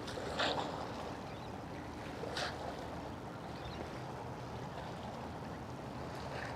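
Steady low hum of a boat's engine out on the water, with water noise and two brief rushing sounds about half a second and two and a half seconds in.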